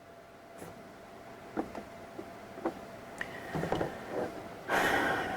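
Scattered computer mouse clicks and small knocks, then near the end a loud burst of rustling, hissy noise lasting under a second.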